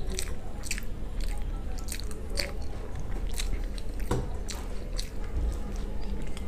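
A person chewing a mouthful of pizza close to a clip-on microphone: an irregular run of short, sharp mouth clicks and smacks.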